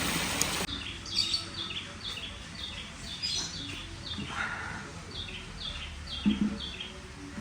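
Birds chirping: a string of short, high, downward-stepping chirps repeated about twice a second. In the first moment it is running water, which cuts off abruptly.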